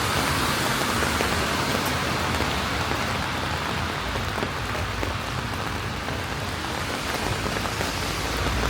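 Steady rain falling, an even hiss with scattered small drop ticks, over a low rumble that grows a little stronger about halfway through.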